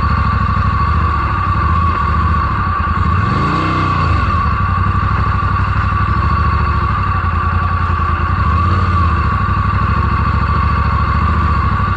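Motorcycle engine running under throttle, with brief rises in revs about three seconds in and again near nine seconds, as the rider tries to power the bike out of a slippery river crossing.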